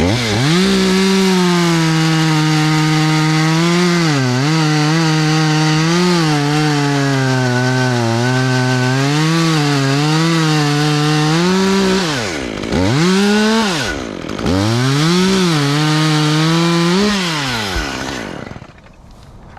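Gas chainsaw running at full throttle through wood, its pitch sagging and recovering as the chain bites. About twelve seconds in the throttle is let off and opened again twice, and near the end the saw drops off the throttle and goes quiet.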